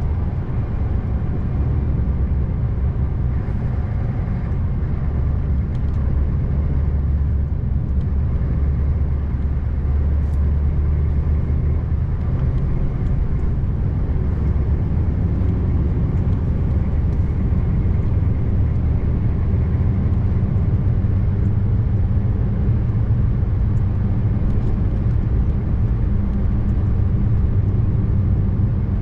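Scania R590 truck's V8 diesel engine running steadily under way, a continuous low drone with tyre and road noise on a winter road.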